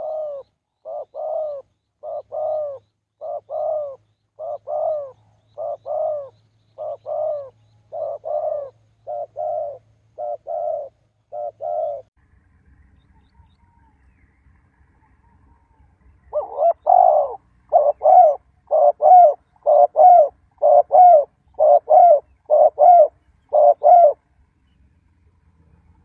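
Spotted dove cooing: a long run of low, evenly repeated paired coos, a pause of about four seconds, then a louder run of the same coos.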